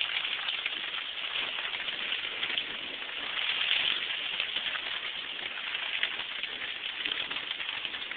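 Steady rain of a thunderstorm, an even hiss of many small drop ticks that swells a little about halfway through.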